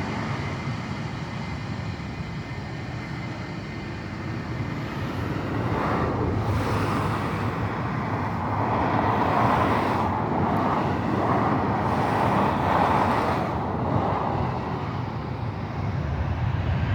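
Airbus A320 jet engines at take-off power, very noisy. A low rumble is joined about six seconds in by a broad rushing roar that peaks and then eases off toward the end.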